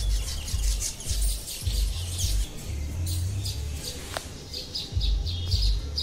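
Small birds chirping in quick, high, short notes over background music with a deep, pulsing bass beat. A brief falling whistle sounds about four seconds in.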